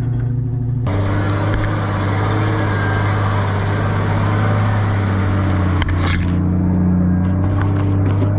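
Off-road vehicle engine running steadily with a constant low drone and road noise; the sound changes abruptly about a second in, and a few clicks or knocks come later.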